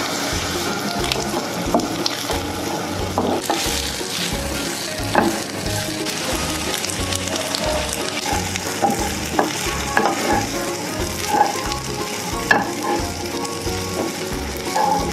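Egg fried rice sizzling in a hot nonstick wok while a wooden spatula stirs and tosses it, with scattered clicks and scrapes of the spatula against the pan.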